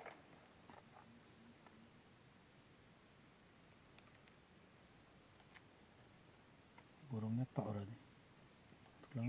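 Insects chirring in a faint, steady, high-pitched drone that does not let up. About seven seconds in, a person's voice is heard briefly.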